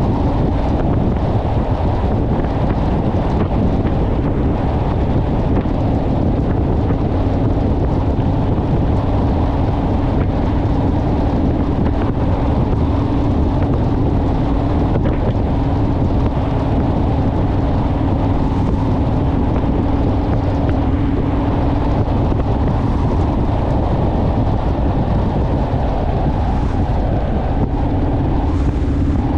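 Honda Rebel motorcycle's parallel-twin engine running steadily at cruising speed, under heavy wind noise on the microphone.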